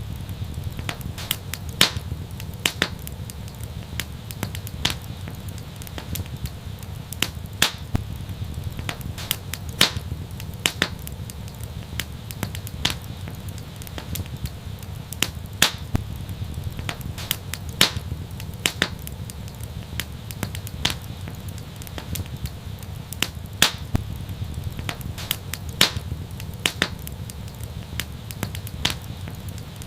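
Wood fire crackling in an outdoor fireplace: irregular sharp pops, about one or two a second, over a steady low rumble.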